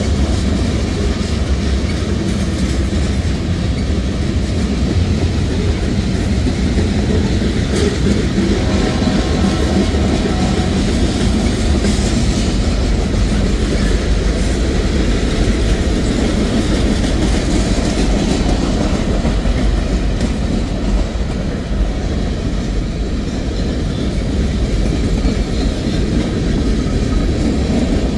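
Mixed freight train's boxcars and tank cars rolling past, a steady loud rumble of steel wheels on the rails with clacking over the rail joints.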